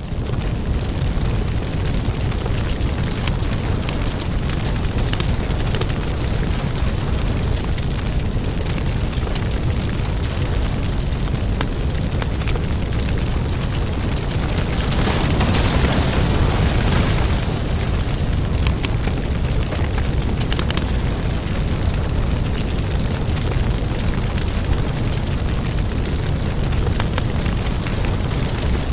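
Wood fire burning in a fireplace: a steady low roar with frequent crackles and pops, and a louder hissing rush about halfway through that lasts a couple of seconds.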